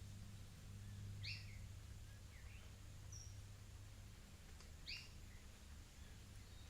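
Faint bird calls: a short two-part call, heard about a second in and again near five seconds, with a couple of brief thin notes between. A low steady hum runs underneath.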